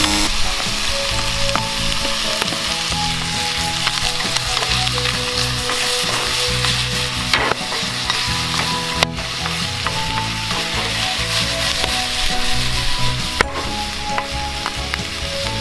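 Food frying in a pan over a campfire, with a steady sizzle and a few sharp pops.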